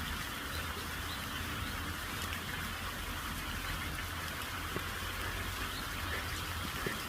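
Steady rain falling, a continuous patter with scattered individual drop ticks, over a steady low rumble.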